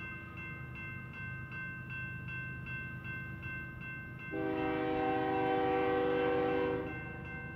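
Diesel locomotive air horn sounding one long blast of about two and a half seconds, starting about four seconds in, as a freight train approaches a grade crossing. Under it run the low rumble of the train and a crossing bell ringing about three times a second.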